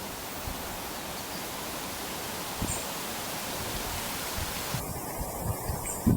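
Steady outdoor wind noise, with irregular low thumps of wind buffeting the microphone.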